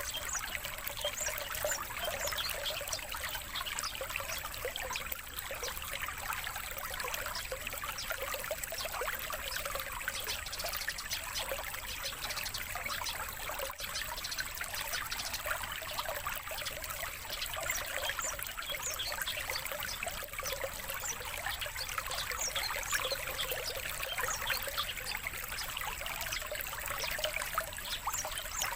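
Water trickling steadily, an even splashing babble with no pauses.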